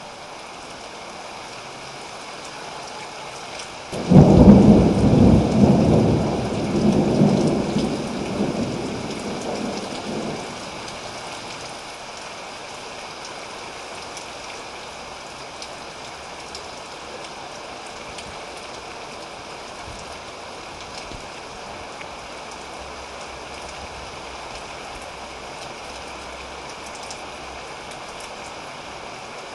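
Steady rain with a close thunderclap: about four seconds in it breaks suddenly and rolls on in several fading swells for around six seconds before only the rain remains.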